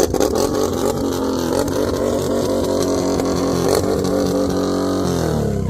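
Can-Am Renegade ATV engine running through a custom dual-pipe exhaust, a loud steady engine note that drops in pitch near the end as the engine slows.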